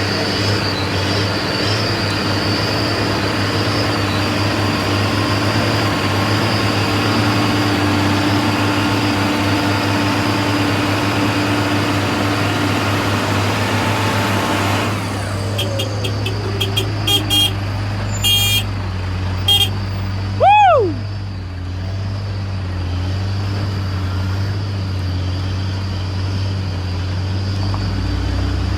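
Heavy truck engine running loudly, easing off about halfway through. A few short horn toots follow, then one horn-like tone that rises and falls in pitch.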